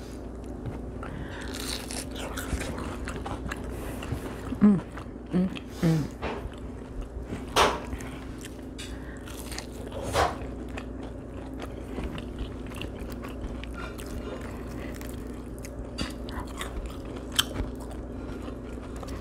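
Close-miked biting and chewing of crisp cornmeal-fried catfish, with scattered crunches and mouth clicks, the sharpest about seven and a half and ten seconds in. A few short hums are heard around five seconds in.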